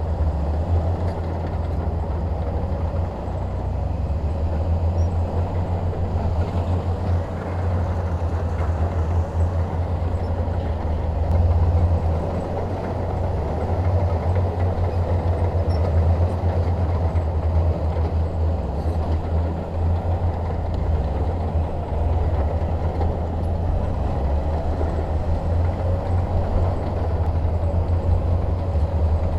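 Shantui DH17 crawler bulldozer's diesel engine running steadily under load, a deep low drone with a rough, noisy layer above it.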